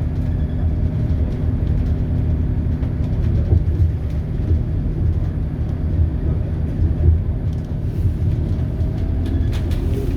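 Scania DC9 five-cylinder diesel of a Scania K280UB bus with a ZF Ecomat automatic gearbox, running steadily under way, heard as a low drone inside the bus. A few light rattles come near the end.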